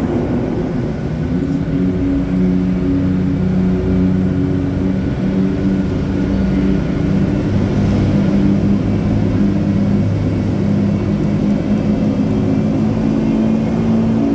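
Ferrari P4 race car's engine running at low revs while the car creeps forward, a steady engine note that shifts slightly in pitch a few times.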